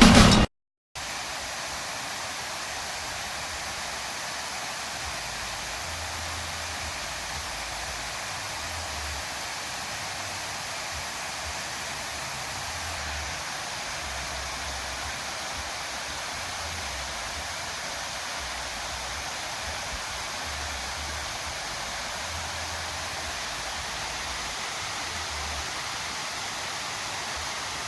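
Steady, even hiss of rushing noise that cuts out briefly just before the first second and then runs on unchanged.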